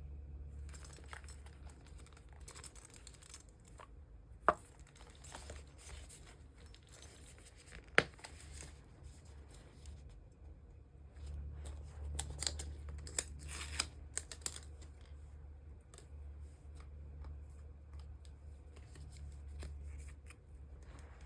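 Clear plastic card sleeves and binder sleeves being handled: crinkling and rustling of thin plastic, with two sharp clicks about four and a half and eight seconds in.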